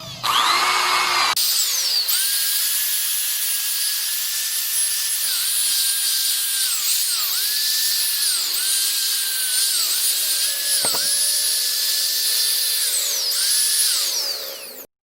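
Small high-speed electric power tool buffing a motorcycle exhaust pipe. It spins up with a rising whine, then its pitch sags briefly again and again as it is pressed onto the metal, and it winds down near the end.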